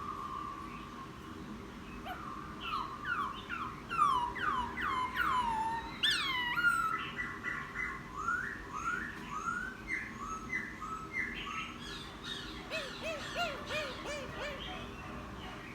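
Wild-caught laughingthrush singing a varied whistled song. It starts with a run of loud notes sliding downward, a few a second, then moves to rising notes, and ends with lower, quicker notes.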